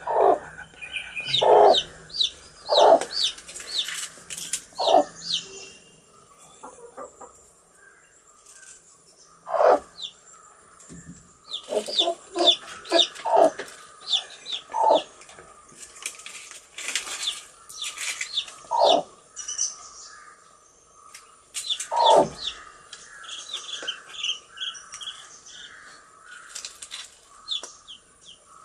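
Baby chicks peeping in runs of short, high chirps, mixed with louder, lower calls that come every second or few.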